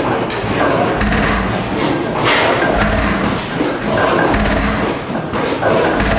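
Large old stationary gas engine running slowly, with a heavy, low exhaust thump about every second and a half and mechanical clatter between the beats.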